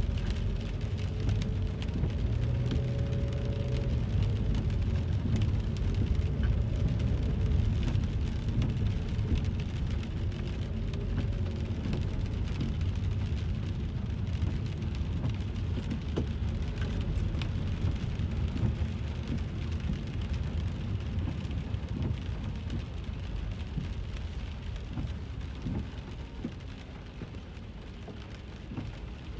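Rain pattering on a car's roof and windshield, heard from inside the cabin, over the low rumble of the car driving on a wet road. The rumble eases off near the end.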